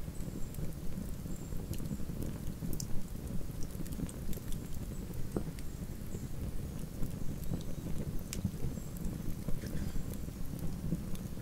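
Wood campfire burning: a steady low rumble with irregular crackles and pops scattered through it, and a couple of sharper snaps about three seconds in and about eight seconds in.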